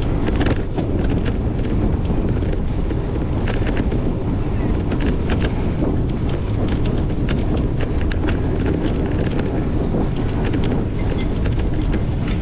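Wind buffeting the microphone over a steady low rumble, with frequent short clicks and rattles of a cyclocross bike running over rough ground.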